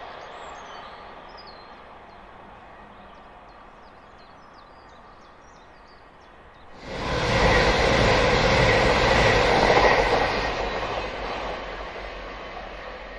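A diesel passenger train running away into the distance, its sound fading, with birds chirping. About seven seconds in, a second diesel passenger train comes in loudly as it passes close by, then fades as it draws away.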